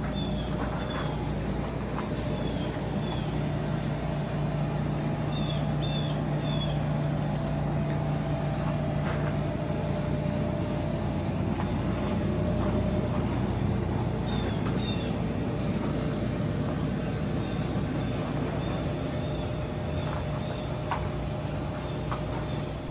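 Steady low hum of a car running, with a bird chirping in short groups of two or three notes several times.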